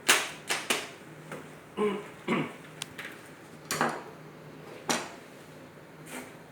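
About ten irregular sharp clicks and knocks of hard objects being handled, the loudest right at the start, with a couple of duller thuds around two seconds in.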